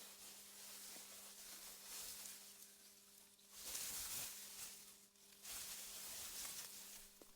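Faint wind rustling through meadow grass, a soft hiss that swells in two gusts, the first about halfway through and the second just after, over a faint steady low hum.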